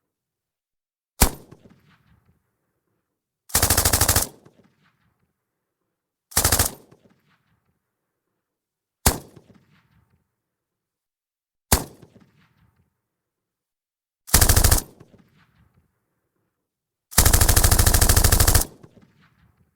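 Russian PKM 7.62×54mmR general-purpose machine gun firing, heard from a distance: single shots and short bursts every two to three seconds, ending with a longer burst of about a second and a half. Each one trails off in echo.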